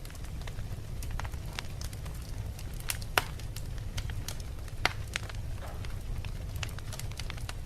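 Wood fire burning in a fireplace: a steady low rumble of flames with irregular sharp crackles and pops from the logs, the loudest pops about three seconds in and again near five seconds.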